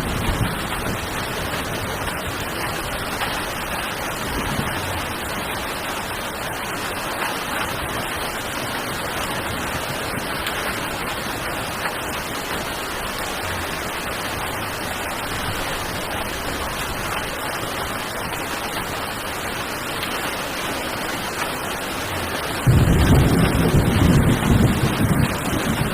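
Heavy rain falling with a steady hiss. About 23 seconds in, a loud low rumble joins it and continues.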